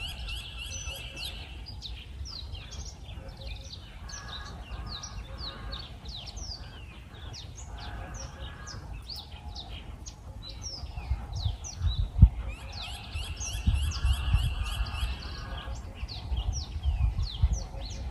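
Several birds chirping and calling, with short quick notes and a rapid trill at the start that comes back later. Underneath, a low rumbling noise grows louder in the second half, with a sharp thump about twelve seconds in.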